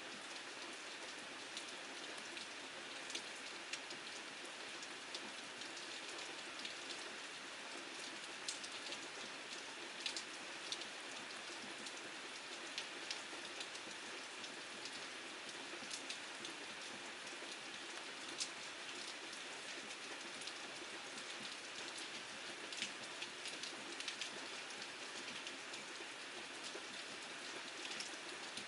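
Steady rain falling, with many scattered sharp ticks of drops striking a surface.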